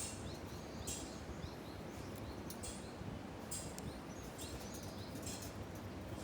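Outdoor ambience: birds calling with short rising chirps over a steady low rushing background. A few brief high hissing bursts come at intervals.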